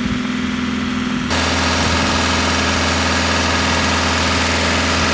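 Ford Mondeo Mk5 2.0 diesel engine running steadily at raised revs during a static DPF regeneration, burning off the soot in the filter. About a second in, the sound gets louder and a broad hiss joins it.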